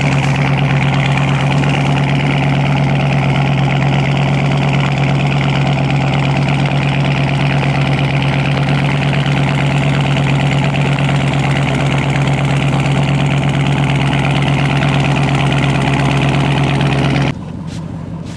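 2022 Dodge Charger Scat Pack's 392 (6.4 L) HEMI V8 idling steadily with a deep, even drone, shortly after a cold start. The sound drops away abruptly near the end.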